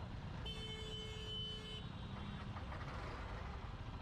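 Road traffic, a steady low rumble, with a vehicle horn held for about a second near the start.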